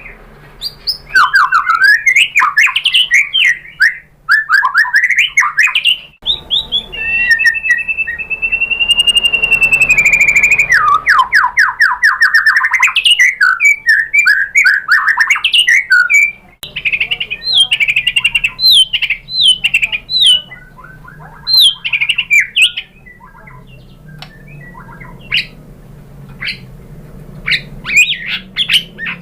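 White-rumped shama singing a loud, varied song of quick sweeping whistles and rapid note series. About eight seconds in comes one long held whistle, followed by a fast run of notes.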